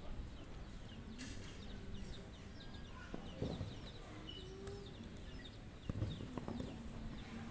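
Birds chirping steadily in the background: many short, falling chirps. A couple of soft thuds of a futsal ball being kicked come about three seconds in and again near six seconds.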